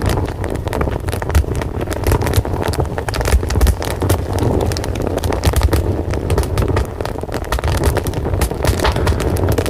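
Wood fire burning, with steady dense crackling and popping over a continuous low rumble of the flames.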